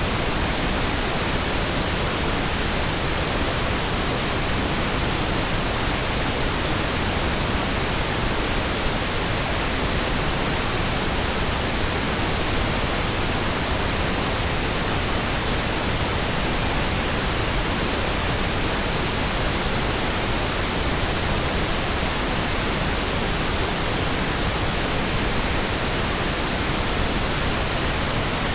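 Steady, unchanging pink noise: an even hiss spread across all pitches, with no breaks or variations.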